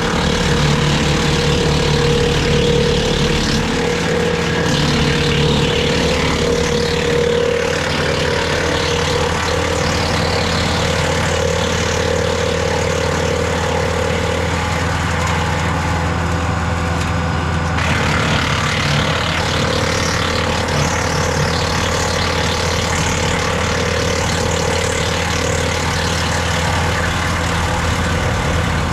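Kubota L4060 tractor's diesel engine running steadily, driving a Woodland Mills WC68 PTO wood chipper, with a rough, shifting noise over the engine's steady hum. The noise changes abruptly about two-thirds of the way through.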